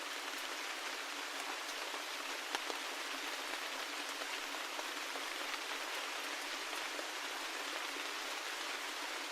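Steady rain falling: an even hiss with scattered sharp ticks of single drops landing.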